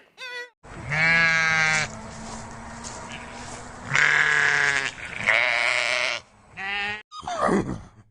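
Goat bleating: three loud, drawn-out bleats of about a second each, then a shorter one, over a steady background hiss, with a brief falling cry near the end.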